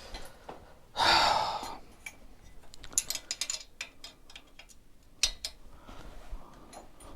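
A loud breath out about a second in, then a run of small sharp metallic clicks and taps, and one more click later: hand tools and feeler gauges working on the rocker and tappet adjusters of the engine's top end.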